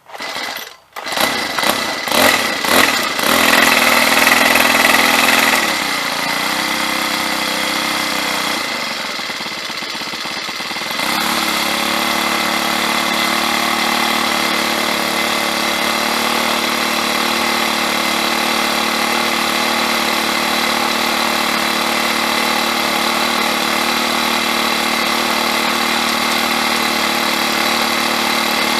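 Cub Cadet BC490 string trimmer's small 25cc four-stroke engine starting, revving in a few uneven surges, idling with a wavering speed, then settling into a steady, even run about eleven seconds in.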